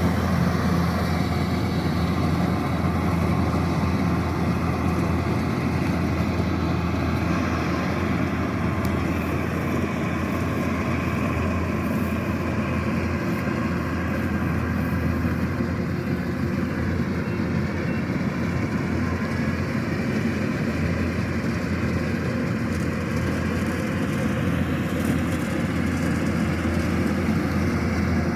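Kubota DC-108X rice combine harvester's diesel engine and machinery running steadily, with a constant low drone.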